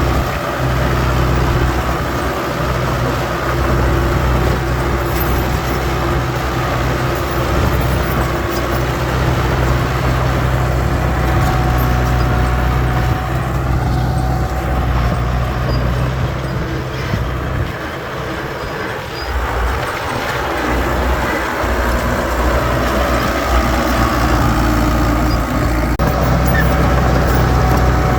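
Heavy earthmoving machinery, dump trucks or a bulldozer, with the engine running steadily and easing off briefly about two-thirds of the way through.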